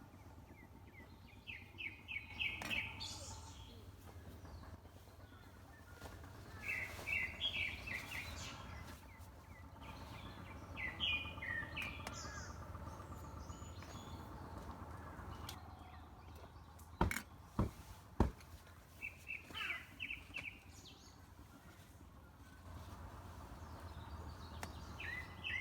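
Birds singing: short runs of quickly repeated chirping notes every few seconds over a steady low outdoor background, with three sharp clicks about two-thirds of the way through.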